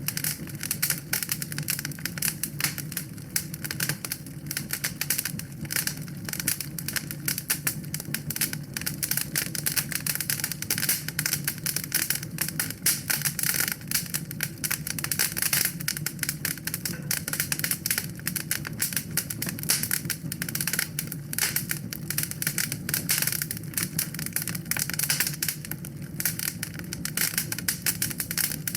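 Wood fire burning in a fireplace, crackling continuously with many small pops over a low steady rumble of flames.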